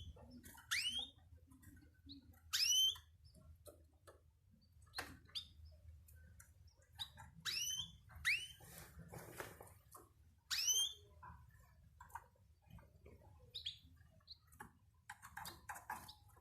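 Pet cage birds calling: short, sharply rising chirps repeated at irregular intervals every second or few, with softer scratchy chatter and clicks in between.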